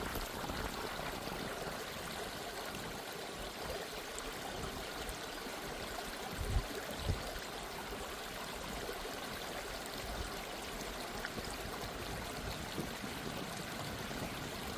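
Gentle stream of running water, a steady trickling flow, with two soft low thumps about halfway through.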